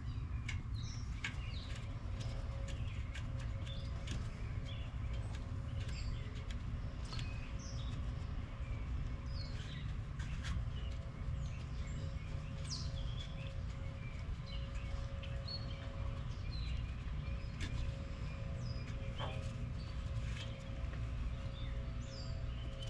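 Birds chirping on and off in short high calls over a steady low rumble and a faint steady hum, with a few light clicks.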